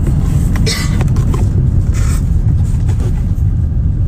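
Steady, loud low rumble, with a few short bursts of higher-pitched noise about a second and two seconds in.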